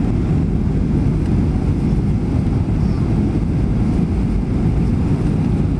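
Steady low rumble of an airliner's engines and airflow heard inside the passenger cabin during the descent.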